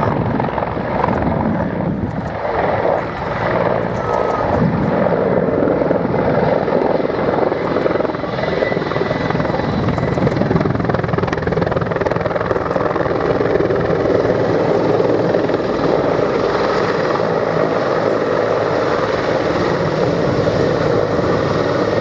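Mil Mi-35 (Mi-24V) Hind attack helicopter flying a display pass: its twin turbine engines and rotor run loud and steady.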